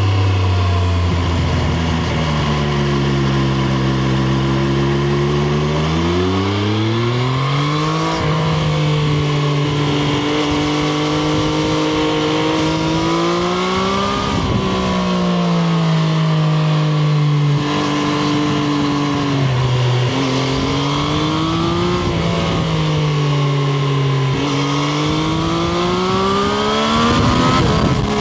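Triumph Street Triple RS's 765 cc inline three-cylinder engine, heard onboard while riding. It runs low and steady for about six seconds, then its pitch climbs and drops several times as the bike accelerates and changes speed, over wind noise.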